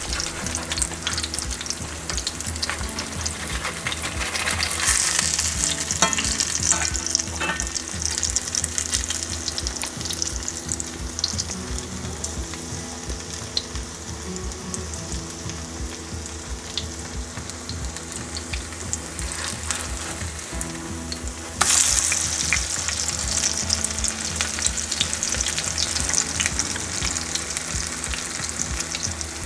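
Cornbread patties frying in corn oil in a cast iron skillet: a steady crackling sizzle. A few spatula scrapes and taps against the pan come in the first several seconds, and the sizzle suddenly grows louder about two-thirds of the way through, when a patty is flipped.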